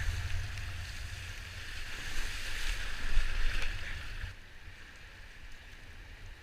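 Wind buffeting the microphone over a rushing of water, swelling about three seconds in and then dropping away sharply.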